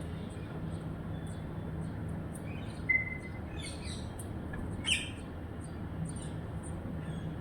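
Bird chirping a few times in short calls, the loudest about three and five seconds in, over a steady low background hum.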